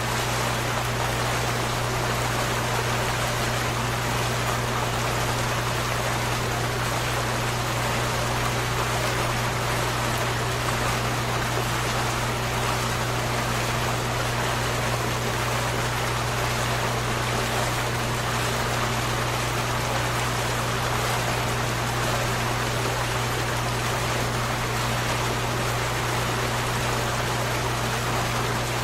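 Running water flowing steadily and evenly, with a steady low hum underneath.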